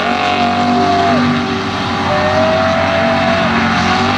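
Mega truck engine running hard at high revs, its pitch held mostly steady with small dips and rises, over a dense wash of noise.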